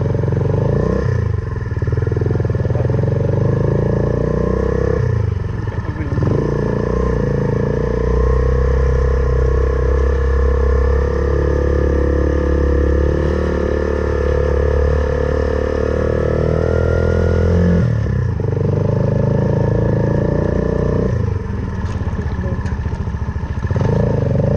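Suzuki Van Van 125's single-cylinder four-stroke engine running under way through an aftermarket full exhaust system. The engine note drops off and picks up again several times as the throttle is closed and reopened, with a long steady pull in the middle.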